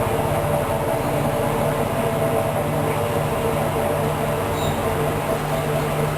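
Hoover DYN 10124 DP washing machine running steadily during its first rinse cycle, a mechanical drone with several steady tones.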